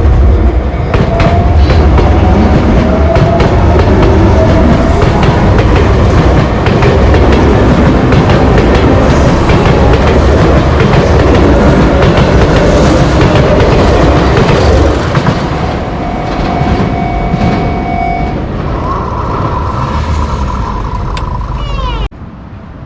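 A Sotetsu Main Line train passing close by a level crossing, its wheels clattering loudly on the rails for about fifteen seconds, then fading. The crossing's warning bell rings on as the train clears.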